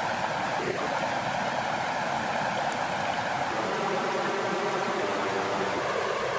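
Flowing water, a steady, even rush.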